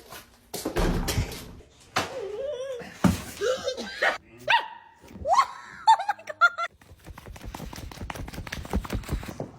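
A dog vocalizing amid several thumps and knocks, followed by a rapid run of clicks over the last few seconds.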